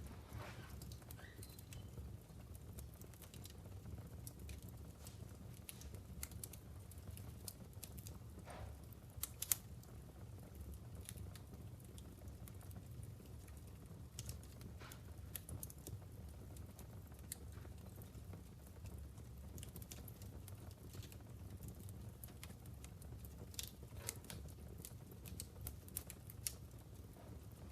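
Wood fire crackling in a fireplace: irregular small snaps and pops from the burning logs over a low steady rumble, with one louder pop about nine and a half seconds in.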